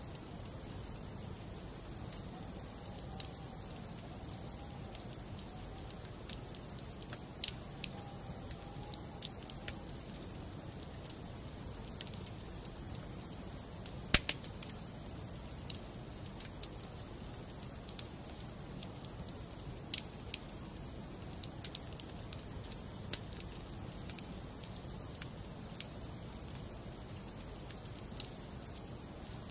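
Wood fire burning in a fireplace: scattered sharp crackles and pops of the burning logs over a low steady rumble, with one loud pop about halfway through.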